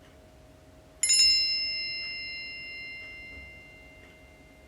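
A single bell-like chime struck once about a second in, ringing and slowly fading away. It is the kind of cue tone that marks the end of a dialogue segment in NAATI CCL practice recordings. A faint steady hum sits underneath.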